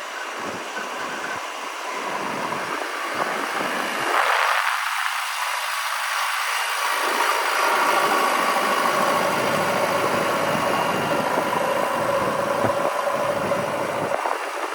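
Heavy diesel engine of earthmoving machinery running steadily, with a faint steady whine coming in partway through.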